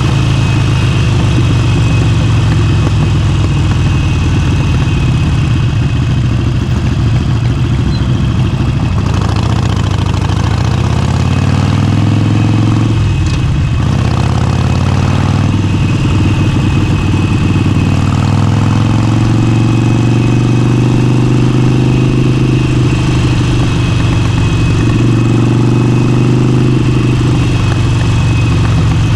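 Motorcycle engine running on the road, its pitch climbing and dropping through the revs. There are breaks where a gear is changed about halfway through, after which it holds a steady pitch.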